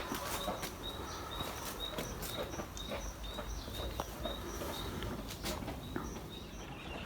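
A small bird repeating short high chirps, about three a second, steadily.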